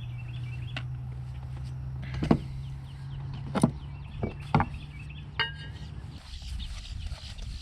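Several sharp knocks and clacks, a second or so apart, over a steady low hum that stops about six seconds in.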